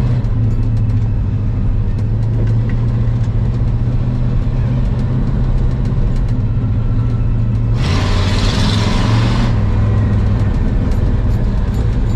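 1985 Ford F250 pickup's engine running steadily under way. About eight seconds in, a hiss rises over it for about a second and a half.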